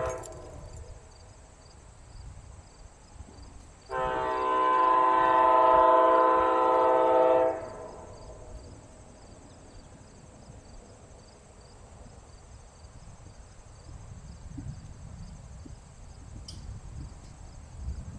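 Train horn sounding one long, steady blast of about three and a half seconds, a chord of several notes, just after the tail of a shorter blast at the start. A low rumble builds near the end.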